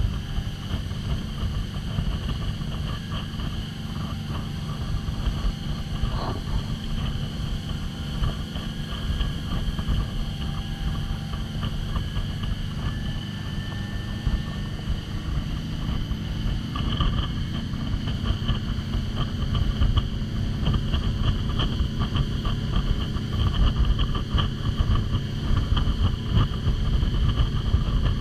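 Motorboat running steadily under way, with a dense low rumble.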